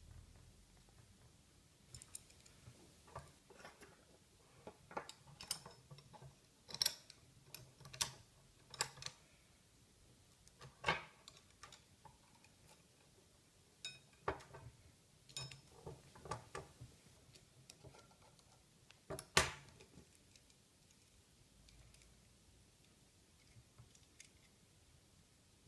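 Faint, irregular light clicks and clinks of metal grill parts being handled and set in place, a dozen or so over about eighteen seconds, the sharpest one near the end, then quiet.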